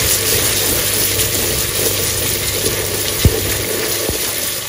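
Onion, tomato and spice masala sizzling steadily in hot mustard oil in an aluminium pressure cooker while it is stirred with a wooden spatula, with two sharp knocks a little after three and four seconds in.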